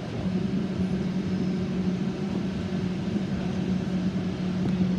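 A train at the station giving a steady low hum, with wind buffeting the microphone.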